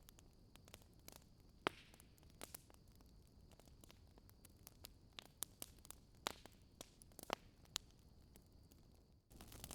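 Wood fire in a fireplace crackling softly: scattered sharp pops and snaps at uneven intervals over a faint hiss. Near the end the hiss cuts out for a moment and comes back louder.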